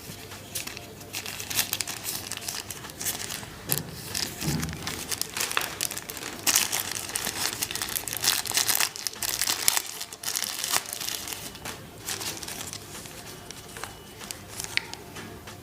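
Packaging being crinkled, torn and handled while a smartwatch is unboxed: a run of irregular crackling and rustling, busiest in the middle.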